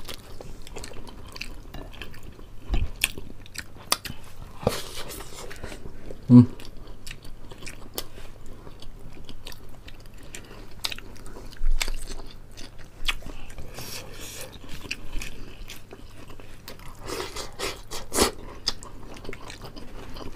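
Close-miked eating sounds: two people chewing and biting into fried chicken and boiled pork leg, with many small mouth clicks and crunches. A sharp knock comes about six seconds in and a low thud near twelve seconds.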